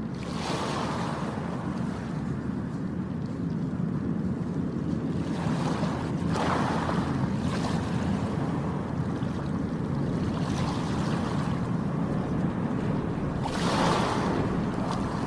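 Sea waves washing in and breaking, a surge about every four seconds, over a steady low rumble of wind on the microphone.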